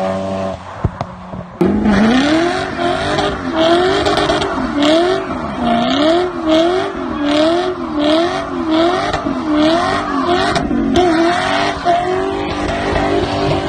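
Car engine revved up and down over and over, its pitch rising and falling about one and a half times a second, starting about a second and a half in.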